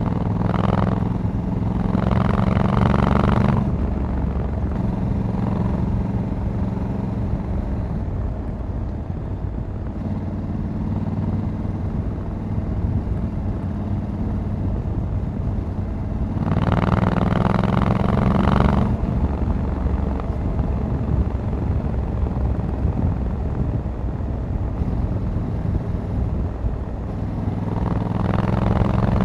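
Honda Africa Twin 1100 DCT's parallel-twin engine running under way. It pulls louder three times: near the start, a little past the middle, and near the end, and runs quieter between.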